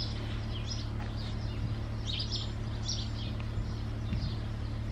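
Songbirds chirping in short, scattered high calls, over a steady low hum.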